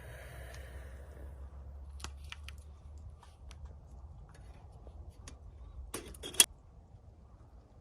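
Scattered light clicks and clinks of small hard objects being handled, with a sharper clatter of several clicks about six seconds in, over a low steady rumble.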